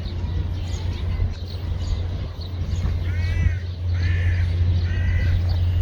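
A crow cawing three times, about a second apart, over a steady low rumble, with faint small-bird chirps in the background.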